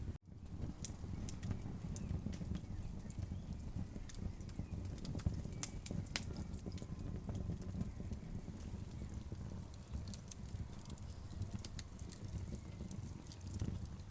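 Wood fire crackling: irregular sharp pops and snaps of burning logs over a low, steady rumble of the flames. The sound cuts out for a split second near the start.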